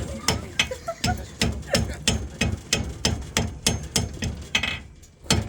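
Blacksmith's hammer striking hot metal on an anvil in a steady rhythm, about three to four blows a second, with a brief pause near the end.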